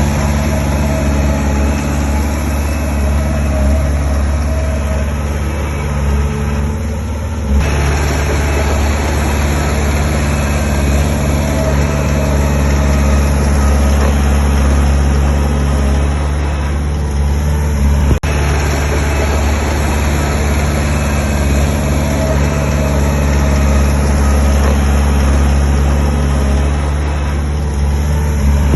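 Heavy diesel engine of earthmoving machinery running steadily with a low drone. The sound eases off briefly about three times and comes back, with a sudden shift about seven seconds in and a single click near the middle.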